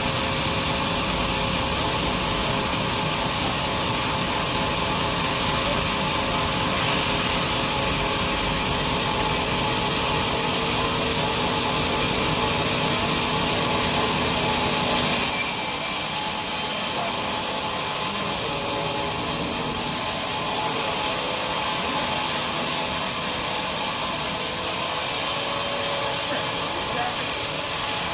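Large sawmill bandsaw cutting lengthwise through a big log, a steady sawing hiss. About halfway through the low rumble drops away and the sound turns brighter and hissier.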